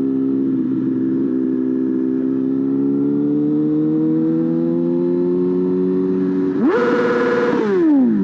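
Motorcycle engine running under way, its pitch rising slowly as it gains speed. Near the end the revs jump sharply, hold for under a second, then fall away quickly, as in a throttle blip.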